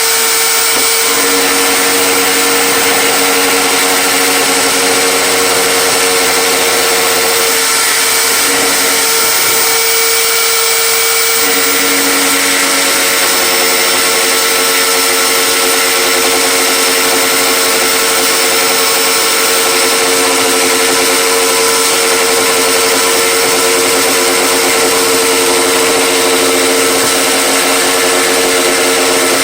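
Handheld power tool motor running steadily under load on a wooden fence, with a steady whine; the lower hum drops out briefly about a third of the way in, then returns.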